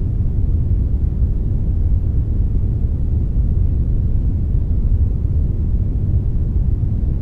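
Steady synthetic brownish noise, a blend of brown and white noise: a deep, even rumbling hiss with most of its weight in the low end, without any change.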